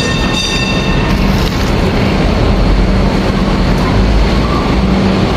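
Steady rumble and noise of a running passenger train, with a high whine of several tones over the first second or so.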